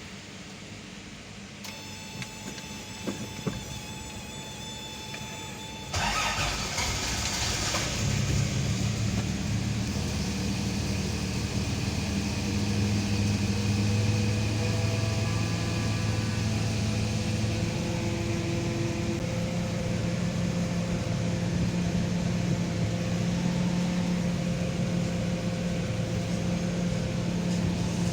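Toyota Land Cruiser engine cranked and catching about six seconds in, then settling into a steady idle. This is the start-up after the oil pressure switch has been replaced.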